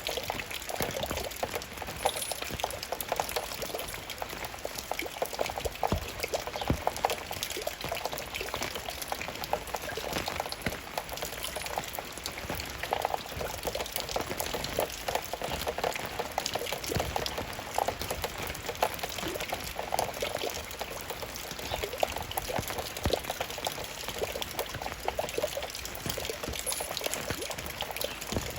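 Raindrops falling and splashing steadily, a dense, irregular run of small drips and splashes of water.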